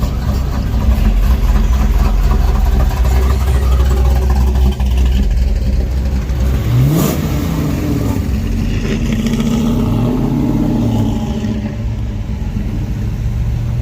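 Classic pickup truck engines running steadily. About seven seconds in, one revs up sharply and falls back, and it revs up and down again a few seconds later.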